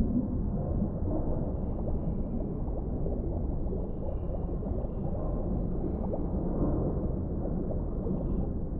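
Underwater ambience: a steady, low, muffled rumble of water with faint gurgling and bubbling running through it.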